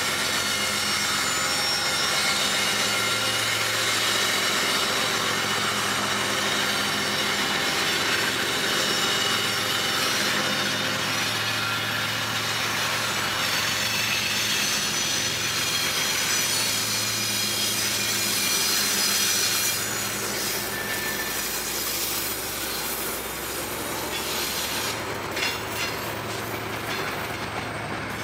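Trinity Railway Express commuter train running along the track: a steady rumble and rattle of the car on the rails, easing a little partway through. A few clicks come near the end, and a thin wheel squeal sets in right at the close.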